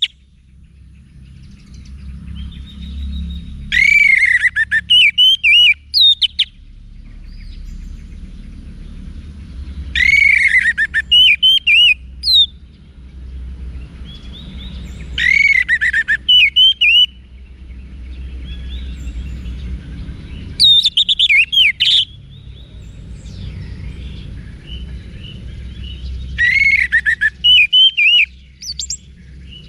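Orange-headed thrush singing: five loud bursts of rich, whistled notes, each lasting about one and a half to two seconds, repeating about every five to six seconds. A low steady rumble fills the gaps between them.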